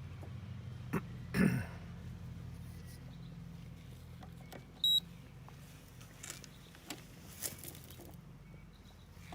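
Steady low electrical hum with a few clicks and handling rustles, and one short high-pitched electronic beep about five seconds in, fitting a multimeter as voltage is checked on the heat pump's control wiring.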